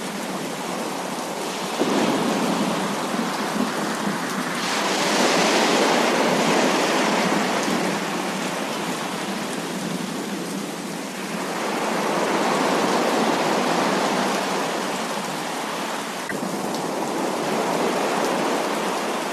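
Heavy rain pouring in a continuous hiss that swells louder and eases off several times, with a sudden step up about two seconds in.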